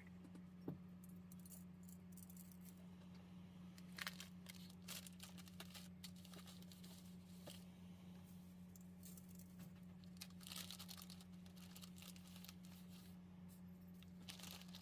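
A steady low hum with scattered light clicks and crinkling, like things being handled.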